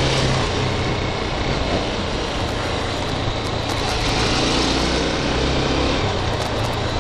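Honda CB300R's single-cylinder engine running steadily at low speed, mixed with wind and road noise while riding through traffic.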